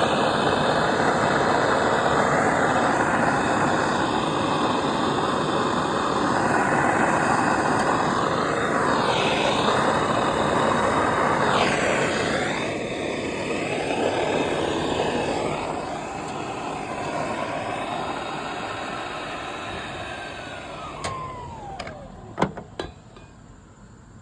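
Plumber's gas torch burning steadily while heating a copper pipe joint for soldering. Near the end the flame is turned off, with a sound that falls in pitch, followed by a few sharp clicks.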